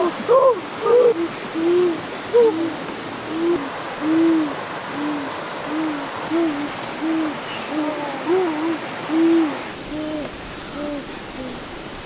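A bird hooting: a long series of short, low, arched hoots, about two a second, fading weaker near the end.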